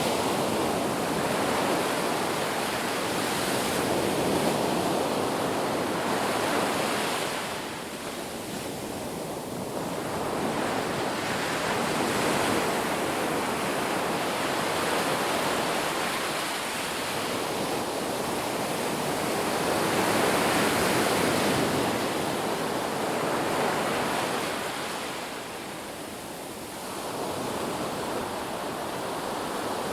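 Ocean waves breaking and washing up a beach: a continuous rushing surf that swells and eases, dropping to brief lulls about a quarter of the way in and again near the end.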